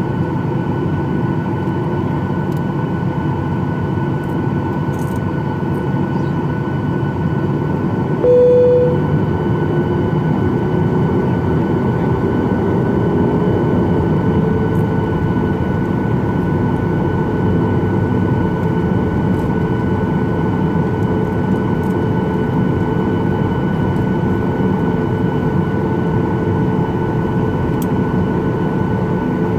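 Boeing 737-800 cabin noise: the CFM56 jet engines run steadily with a constant whine over a deep rumble. About eight seconds in there is a brief single tone. After it, a tone rises slowly for a few seconds and then holds steady.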